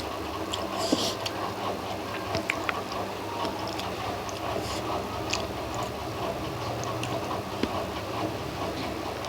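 A person chewing and eating a meal of rice and fish curry, with small sharp clicks and mouth noises scattered throughout.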